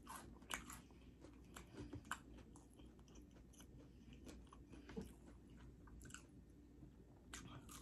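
Faint close-up chewing of a mouthful of battered fried chicken, with scattered soft clicks and crunches of the mouth working.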